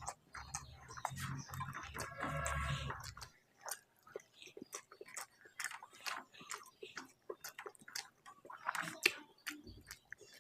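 Close-miked chewing of a mouthful of food, with many small wet mouth clicks. A low rumble sits under the first few seconds and stops about three seconds in.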